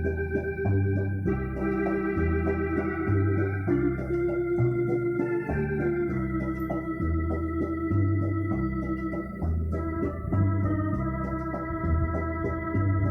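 Yamaha Electone BK-5C electronic organ (1978) playing held chords over a bass line that steps to a new note about every second.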